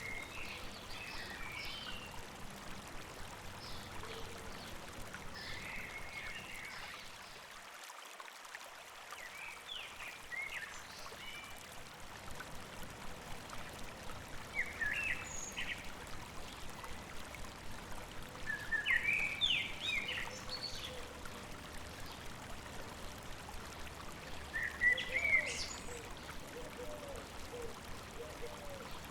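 Birds singing in short chirping phrases every few seconds, over the steady rush of a flowing stream.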